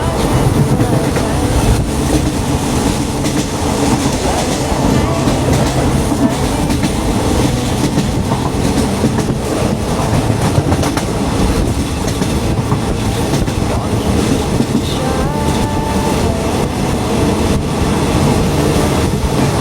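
State Railway of Thailand passenger train no. 14 running along the track, heard from inside a carriage as a steady, loud rumble.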